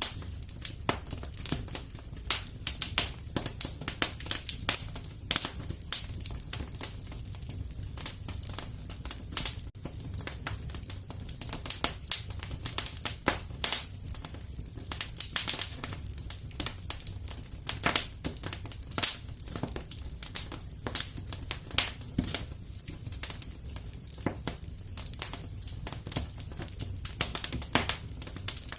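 Wood fire crackling and popping in a fireplace: irregular sharp pops and snaps, several a second, over a steady low rumble of the flames.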